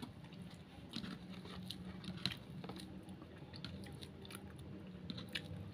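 A person chewing a mouthful of food close to the microphone, with soft crunches and small mouth clicks scattered throughout, over a faint steady hum.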